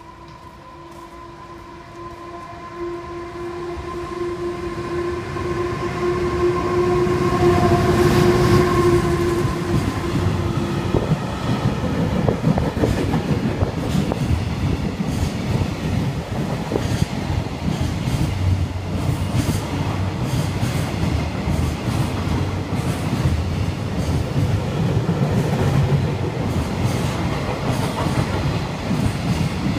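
Freight train hauled by an EH500 electric locomotive passing through the station at speed, a long rumble with rapid wheel clicks over the rail joints. A steady tone sounds through the first ten seconds while the train approaches and grows louder.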